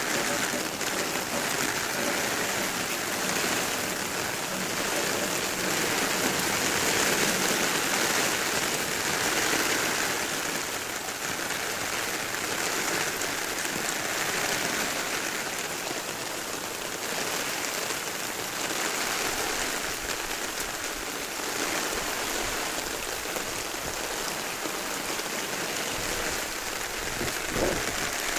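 Heavy rain pouring steadily, a dense hiss of rain on surfaces that swells and eases in waves every few seconds, from a typhoon-fed rainband. A brief low thump near the end.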